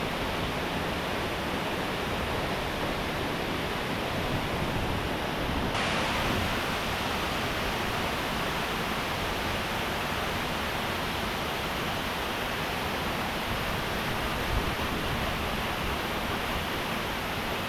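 Waterfall: the steady rushing noise of falling water, with a slight brightening in tone about six seconds in.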